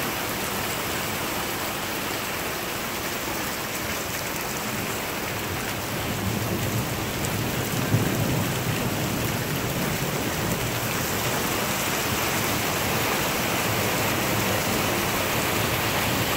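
Rain falling steadily in a thunderstorm, with a low rumble of thunder swelling about six seconds in and a short knock near eight seconds.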